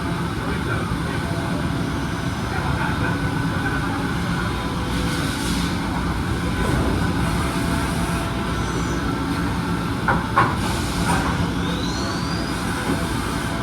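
Kan KH-6 CNC deburring and washing machine running: a loud, steady mechanical rumble with a few steady tones, two sharp knocks about ten seconds in and a short rising whistle a little later.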